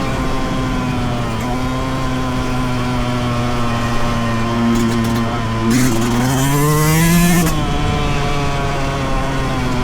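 2023 Yamaha YZ125's two-stroke single-cylinder engine running at a steady pitch while riding. About six seconds in it revs up for roughly two seconds, with a rush of hiss, then drops back to a steady note.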